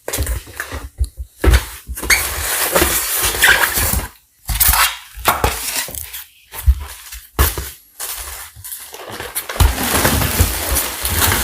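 Blender packaging being unpacked: irregular rustling, scraping and knocking of cardboard and plastic packing as parts are pulled from the box.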